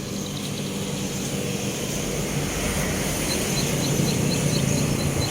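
A motor engine drones steadily, growing louder. Short high chirps repeat about three times a second over it near the end.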